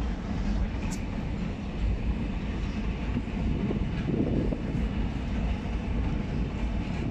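A train pulling out of a station: a steady low rumble from the rolling wagons, swelling slightly about four seconds in.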